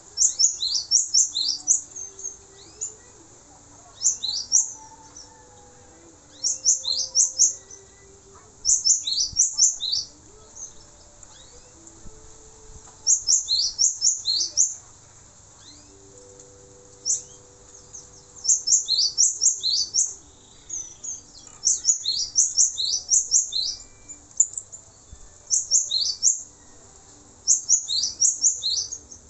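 Male cinereous tit (gelatik batu) singing: bursts of quick, high, downward-sweeping notes, each phrase about a second long, repeated every few seconds.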